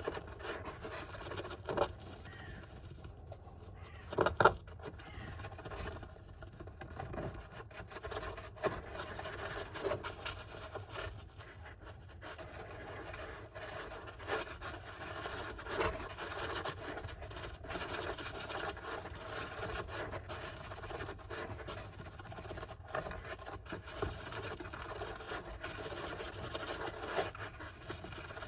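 Golden hamster scratching and scraping in its enclosure: soft, irregular scratches with scattered small ticks throughout.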